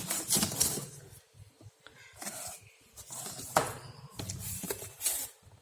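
Cardboard box and plastic packaging being handled as the box is opened: bursts of rustling with short knocks and clicks.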